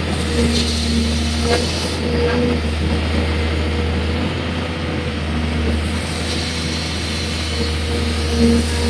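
Excavator's diesel engine running steadily: a constant low hum, with a higher pitched tone that comes and goes.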